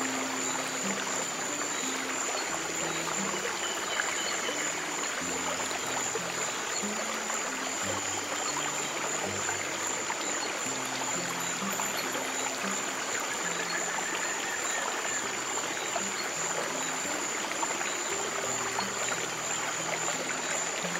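Steadily running stream water, with soft low piano notes changing slowly underneath.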